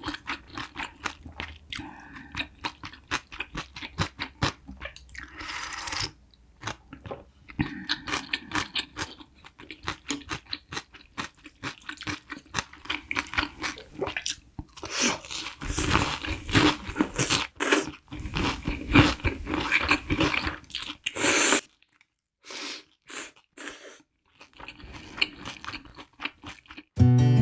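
Close-miked eating: many quick crunches and chewing of fried pork cutlet, with a few longer hissy stretches and a brief pause about 22 seconds in.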